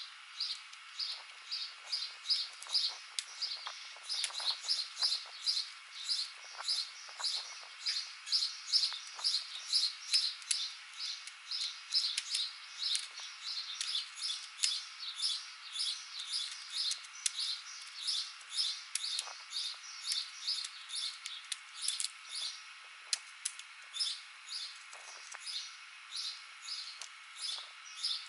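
A small bird chirping over and over at an even pace, about two short high chirps a second, without a break.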